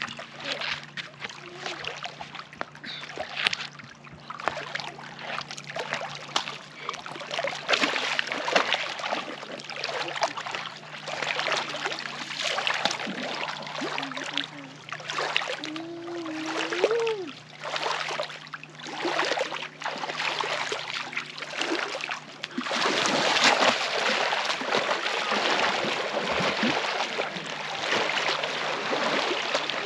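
Lake water splashing irregularly as people swim and play in it, with a brief voice calling out about halfway through. About two-thirds of the way in, the splashing turns denser and steadier.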